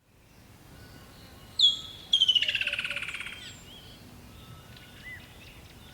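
Birds calling. About a second and a half in there is a loud, sharp whistled note, followed at once by a fast rattling trill that fades over about a second, with fainter chirps after.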